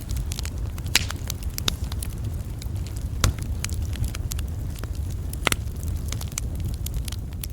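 Campfire crackling with frequent sharp pops, a few of them louder than the rest, over a steady low rumble.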